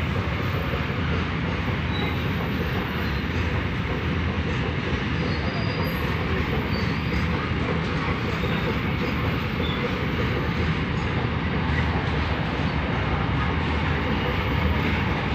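Freight train of Indian Railways BOXN open wagons running past, with the steady, unbroken noise of wheels on rail and rolling stock.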